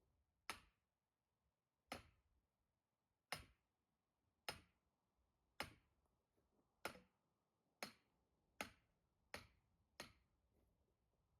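Axe striking wood in firewood chopping, about ten sharp strikes, coming faster toward the end.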